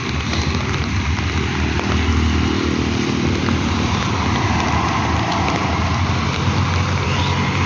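Steady monsoon rain with a constant low rumble underneath, and a faint motor-like hum for a couple of seconds near the middle.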